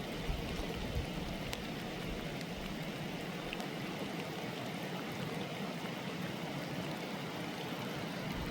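Steady rain falling, an even hiss of rain and running water, with a sharp tick of a drop about a second and a half in.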